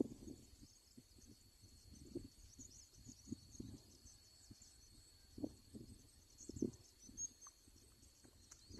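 Insects chirring steadily in a dense high chorus over a constant thin high whine, with scattered soft low knocks and rustles from close handling, the loudest a little past the middle.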